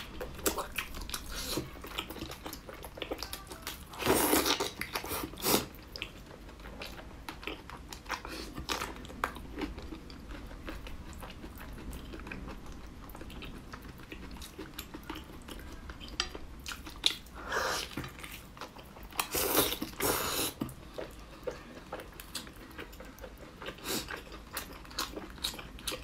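Close mouth sounds of someone biting and chewing soft braised pork, wet clicks and smacks throughout, with a louder spell about four seconds in and again near twenty seconds.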